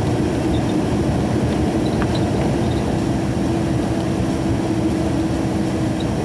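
Truck driving at road speed, heard from inside the cab: a steady engine and road drone with a constant hum.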